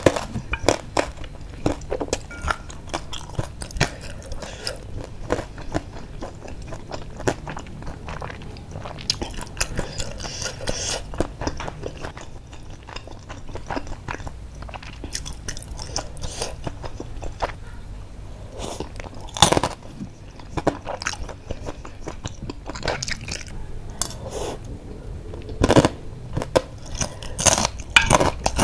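Close-miked mouth sounds of a person chewing and biting baso aci and basreng, with wet smacks and crunches. A few sharper clicks stand out about two-thirds of the way through and near the end.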